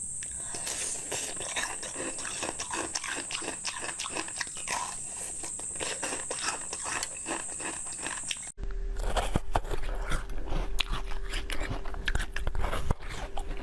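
Close-miked eating: crunchy bites and chewing of frozen treats, a quick run of crisp clicks and crackles. About two-thirds through there is a cut, and a steady low hum runs under the bites afterwards.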